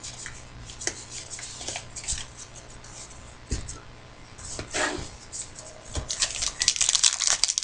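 Trading cards and a foil pack wrapper being handled: light taps and sliding cards, then wrapper crinkling that grows denser and louder about six seconds in.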